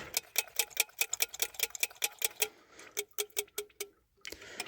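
Rapid, even mechanical ticking, about seven ticks a second, that thins out and stops about four seconds in.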